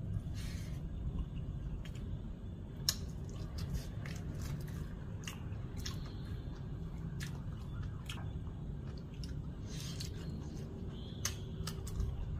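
A person eating rice and fried shrimp by hand: chewing with scattered short wet mouth clicks, and fingers squishing and mixing rice in a bowl. A steady low hum runs underneath.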